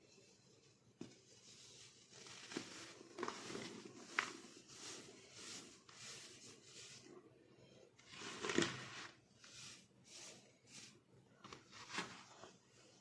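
Chunks of baking soda being crushed and crumbled: a run of crunchy, crackling squeezes, the loudest about eight and a half seconds in.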